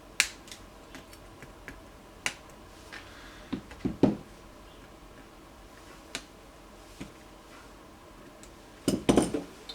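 Side cutters snipping off the excess leads of newly soldered capacitors on a circuit board: separate sharp snips a second or two apart, with a louder cluster of knocks from handling the board and tools near the end.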